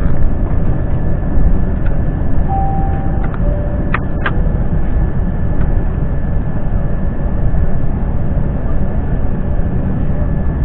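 Steady low rumble of an Airbus A350's engines and airframe heard inside the passenger cabin, with two brief faint tones and two sharp clicks about three to four seconds in.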